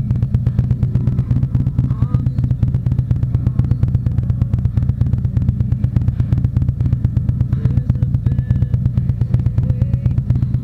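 Harley-Davidson V-twin engine running steadily under way, a deep, even pulsing exhaust note.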